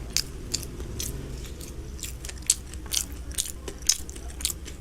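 Close-miked eating: chewing and biting, with irregular sharp wet mouth clicks.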